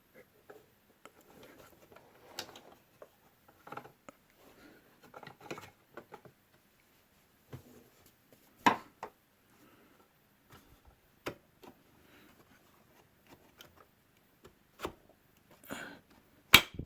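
Scattered plastic clicks, taps and rubbing as a new handle-release foot switch is worked into place on a Bissell Helix upright vacuum, with a sharp snap about nine seconds in and a louder one near the end.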